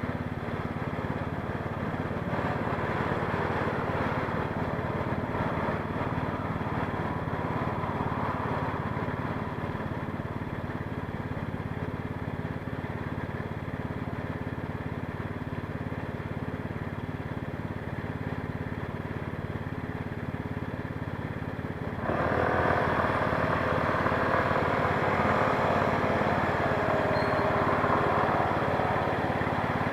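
Street traffic and road noise heard while riding an electric scooter through city streets, with steady motor-vehicle hum. About 22 seconds in it suddenly gets louder, with a wavering engine-like tone rising and falling in pitch.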